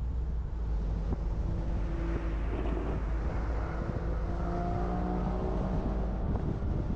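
A car driving on a road: a steady low rumble of road and wind noise, with a humming tone that rises and falls in pitch through the middle.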